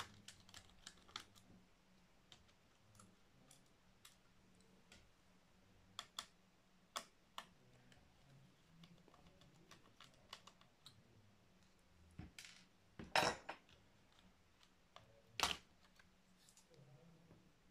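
Faint, scattered clicks and taps of small tools and metal parts being handled on an opened laptop as its CPU heatsink is unscrewed and removed, with two louder clacks in the last third.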